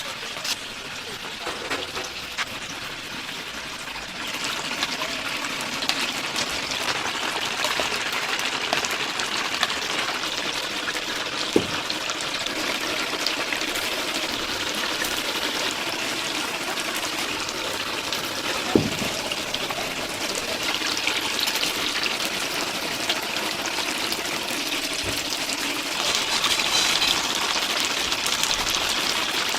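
Chicken deep-frying in a vat of hot oil: a dense, steady crackling sizzle. Two sharp knocks stand out, a little before halfway and about two-thirds of the way through.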